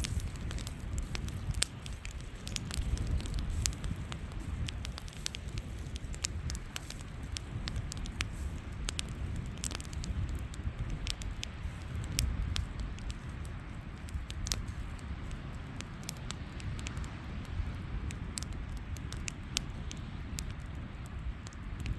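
Campfire crackling, with frequent sharp, irregular pops over a steady low rumble.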